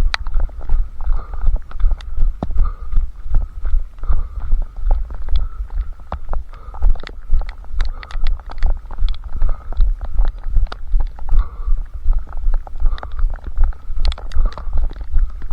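A runner's footfalls carried into a head-strapped camera: a steady rhythm of dull low thuds, about three a second, with light taps and clicks over them.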